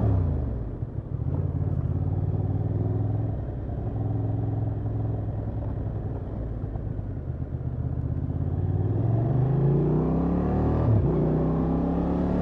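Honda XL750 Transalp's parallel-twin engine through its stock exhaust. It slows at first and runs at low revs, then picks up about eight seconds in, with a short drop near the end as it shifts gear before climbing again.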